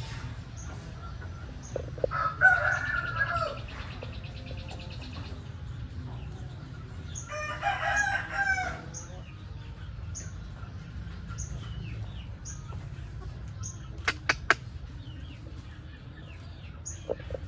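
A rooster crows twice, once about two seconds in and again around seven seconds in. Short high chirps repeat about once a second behind it, and a few sharp clicks come near the end.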